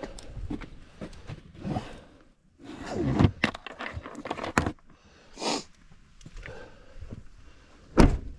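Kindling and firewood being handled and set in a campfire: irregular rustling, scraping and light knocks of wood, with one sharp loud knock near the end.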